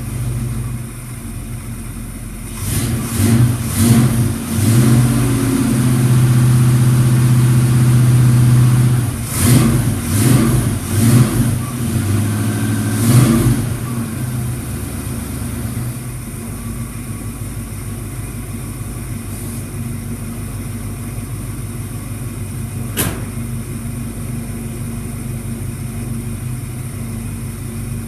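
Cold 1967 Ford engine, freshly started after sitting for months in freezing weather, revved in a series of throttle blips through the first half, then settling to a steady idle. One sharp click about three-quarters of the way through.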